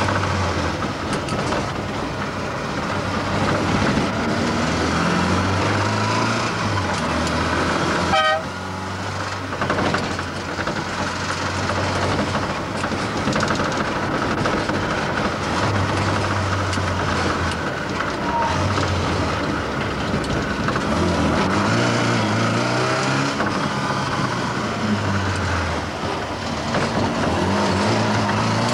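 Mk1 Ford Escort RS2000's 2.0-litre four-cylinder engine running under way, heard from inside the cabin, its note rising and dropping as it is driven through the gears. A short horn toot sounds about eight seconds in.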